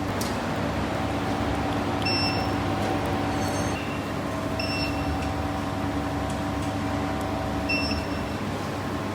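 SuperbMelt SPB-DH2 gold melting furnace running with a steady machine hum. Short high beeps sound about four times.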